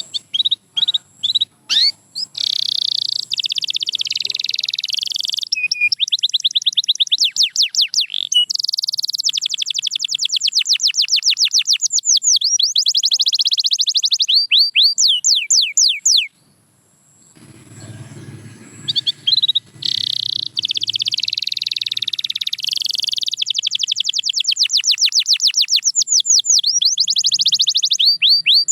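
Domestic canary singing: long trills of fast repeated sweeping notes, one phrase running into the next, with a break of about a second just past halfway.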